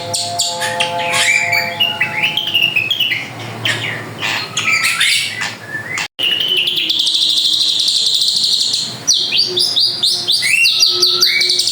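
A drongo singing: a varied run of whistled notes that glide up and down, mixed with chatter. After a sudden break about six seconds in comes a long buzzing trill, then more rising whistled notes.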